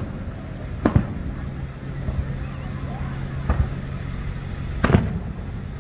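Aerial fireworks shells bursting: three sharp bangs, about a second in, a weaker one midway and the loudest near the end, over a steady low hum.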